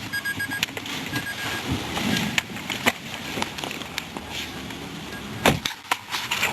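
A car's electronic warning chime, two quick runs of four short high beeps, followed by scattered clicks and knocks of handling in the car and one loud thump about five and a half seconds in. No engine is running.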